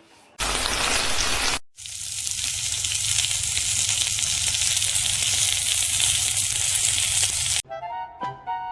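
Loud steady hissing noise: a short burst about half a second in, then a longer stretch of about six seconds after a brief break, which cuts off suddenly. A light chiming melody starts near the end.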